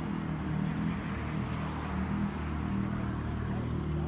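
A car engine idling, a steady low rumble with an even hum and no revving.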